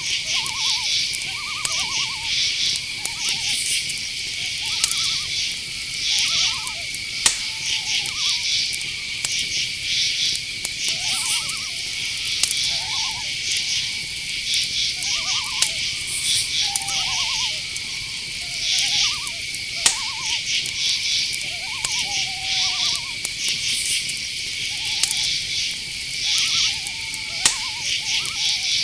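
Night insect chorus: a steady high cricket trill with rhythmic pulsing chirps over it. Owls give short, wavering hoots every second or two, with an occasional sharp click.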